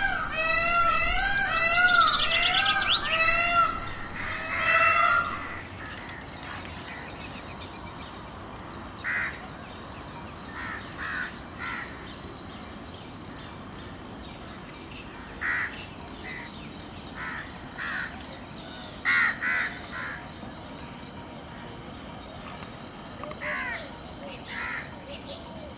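A bird calling a quick run of short, arched, clear notes, about two a second, which stops about five seconds in. Scattered short bird chirps follow, over a steady faint high hiss.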